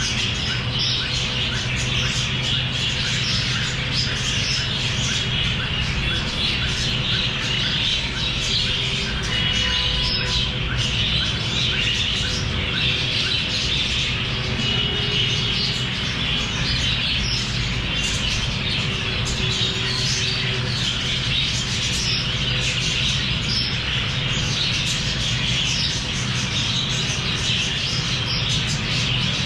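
A flock of small parrots chattering and squawking without pause, many overlapping calls, over a steady low hum.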